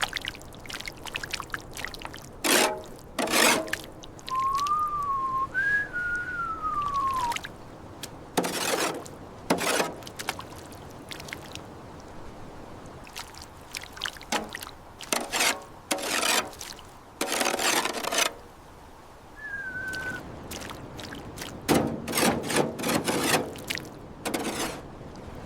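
Liquid pouring and sloshing in a dozen or so separate bursts, some brief and some lasting a second or two. Three short whistle-like tones glide up and down among the bursts, two of them close together about five seconds in and one near the twenty-second mark.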